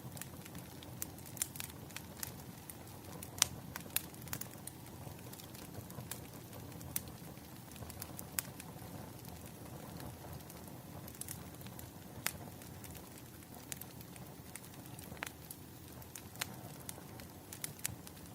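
Wood fire crackling: irregular sharp pops and snaps over a steady low rumble of burning logs, with a louder pop about three and a half seconds in.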